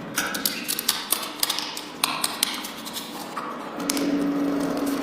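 A quick run of light clicks and taps, several a second, for the first two seconds or so, then a steady low hum near the end.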